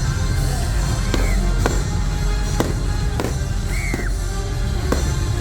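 Fireworks bursting in a show, sharp bangs coming about once or twice a second, over loud show music.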